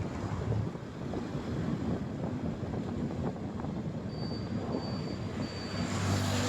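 Motorcycle running on the road with wind rushing over the microphone, its engine hum steadier and a little louder near the end.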